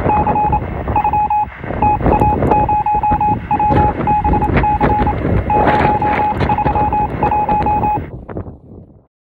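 Strong wind buffeting the microphone, with a high electronic beeping tone pulsing on and off over it in irregular short and long beeps, like Morse code. Everything fades out about eight seconds in.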